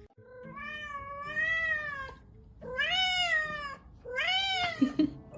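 A cat meowing three times: one long drawn-out meow, then two shorter ones, each rising and then falling in pitch.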